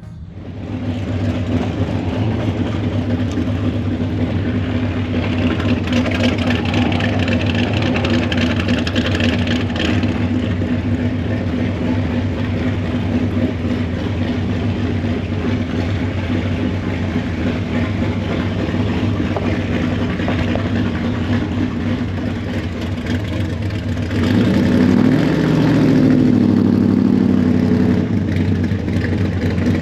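Car engine running steadily at low revs. About 24 seconds in it revs up and stays louder for the rest of the stretch.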